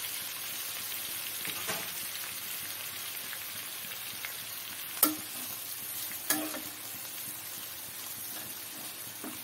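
Chopped green onions sizzling in hot desi ghee in a frying pan, a steady hiss. A metal ladle knocks sharply against the pan twice, about five and six seconds in.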